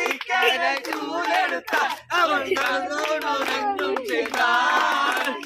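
A group of people singing a song together, their voices held and overlapping, with some hand clapping.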